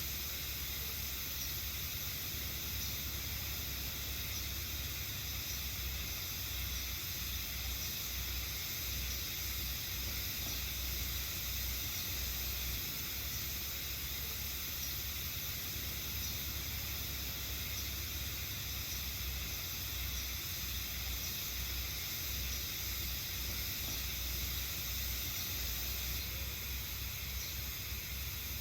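A steady chorus of cicadas in forest, a high-pitched shrilling that holds without a break, over a low rumble.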